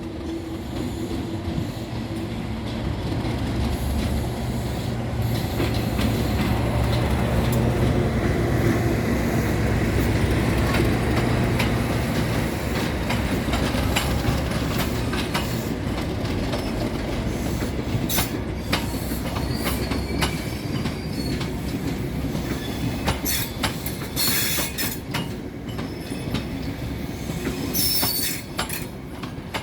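Class 37 diesel locomotive's English Electric V12 engine drones as it passes, loud for most of the first two-thirds and then falling away. The coaches follow, their wheels clicking over rail joints, with brief high wheel squeals near the end.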